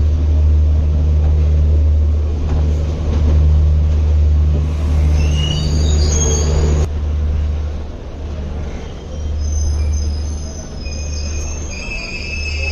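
Moving passenger express train with a heavy low rumble. High, thin squealing tones from the wheels come in around the middle and hold steadier near the end.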